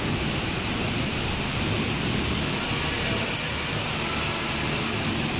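Steady heavy rain during a thunderstorm, an even unbroken hiss with no thunderclap.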